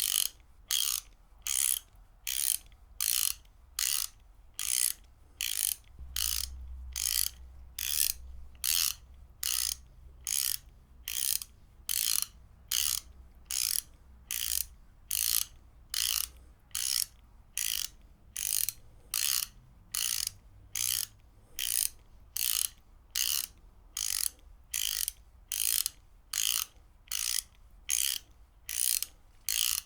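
Ratchet wrench being worked back and forth: short runs of rapid pawl clicking, about two a second, in a steady rhythm.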